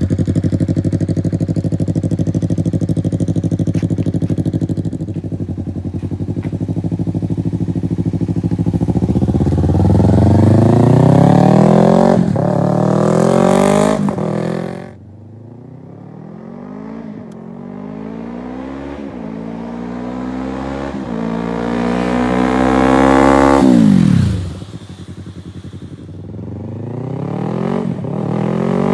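Yamaha YZF-R3's parallel-twin engine through an M4 carbon slip-on exhaust, idling steadily, then pulling away and accelerating through the gears, its pitch climbing and dropping back at each shift. It twice backs off the throttle sharply, about halfway through and again near the end, then accelerates once more.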